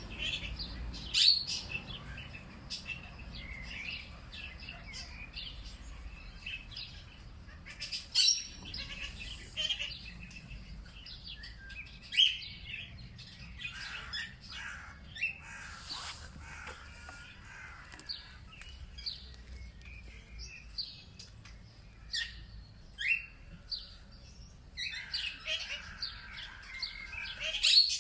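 Several birds chirping and calling at once, short high notes coming in irregular bursts with louder clusters every few seconds, over a faint low background rumble.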